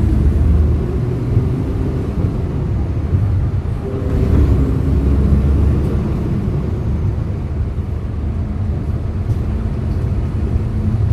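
Hyundai Green City CNG city bus engine running as the bus drives, a deep steady rumble whose note shifts up and down. It grows louder about four seconds in as the engine pulls harder.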